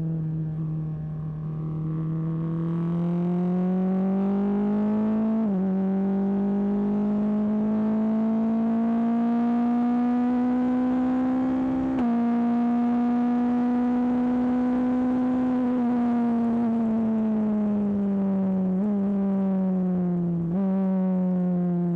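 BAC Mono R's 2.5-litre Ford Duratec four-cylinder engine under acceleration, heard from the cockpit. Its pitch climbs and drops at two upshifts, about five and twelve seconds in. It then falls away as the car slows, and jumps back up with a downshift near the end.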